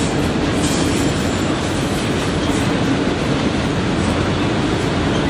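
Autorack cars of a manifest freight train rolling past, a loud, steady noise of steel wheels running on the rails.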